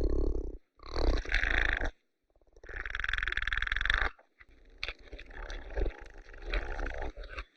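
Oryx calling: four rough, noisy calls with short gaps between them, the last one drawn out over about three seconds.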